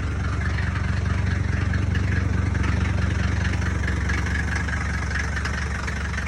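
Mercedes-Benz 300GD's five-cylinder diesel engine idling steadily just after a cold start, having fired up normally with all its glow plugs working.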